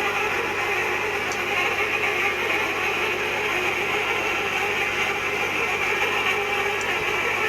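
Manual hot tapping machine working on a steel pipe, a steady, continuous mechanical grinding.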